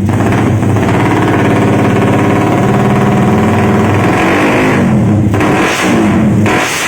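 Suzuki Satria FU single-cylinder four-stroke engine, bored up to 200cc, running through an RDS aftermarket exhaust. It is held at steady revs at first, then revved up and down several times in the second half.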